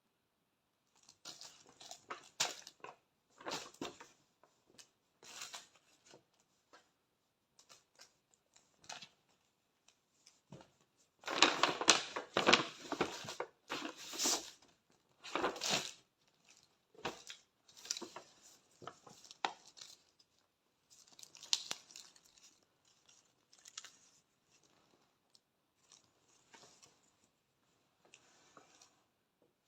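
Gift packaging being torn open and crumpled by hand in irregular rustling bursts, with a longer, louder stretch of tearing about midway.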